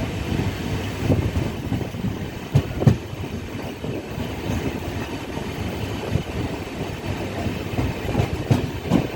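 Express passenger train running, a steady rumble of wheels on the track with irregular knocks and rattles; a couple of louder knocks come about two and a half to three seconds in.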